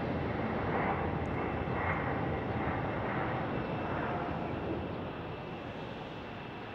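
Jet airliner engine noise, a steady roar that slowly fades toward the end.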